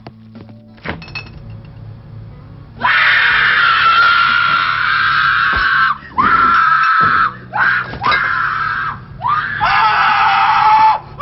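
Screaming: a long scream starts about three seconds in, then breaks into a string of shorter screams that swoop up and down, the last of them lower. Before it there is a low steady hum and a few faint clicks.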